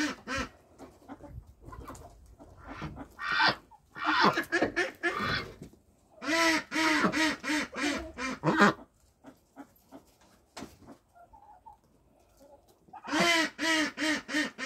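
Domestic ducks quacking in bouts of quick, repeated calls, a few per second, with a quieter gap in the middle and another bout near the end.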